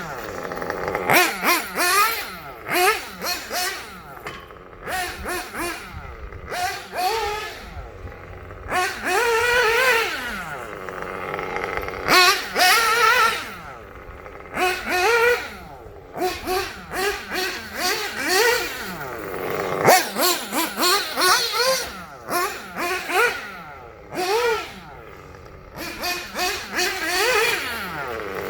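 Kyosho Inferno Neo 2.0 nitro buggy engine with a Dynamite 053 pipe, revving up and down in short high-pitched bursts as the throttle is blipped and released while the buggy is driven.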